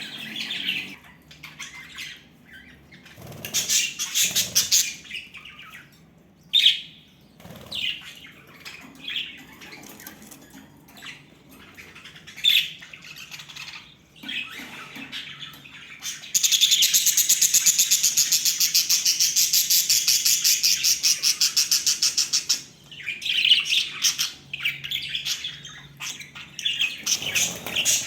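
Pet budgerigars chirping and chattering in short high calls. In the middle, a loud, rapid, evenly pulsing high buzz runs for about six seconds, starting and stopping abruptly.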